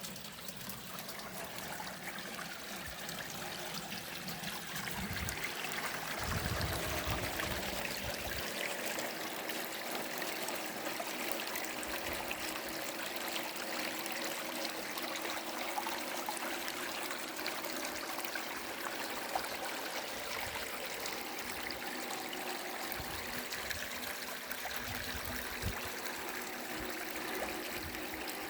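Small stream of rainwater running and trickling steadily, swollen by recent rain.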